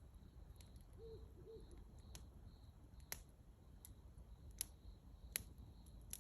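Faint campfire crackling: scattered sharp pops and clicks, a few louder ones after about three seconds, over a low steady rumble. About a second in, two short low calls from a bird sound briefly.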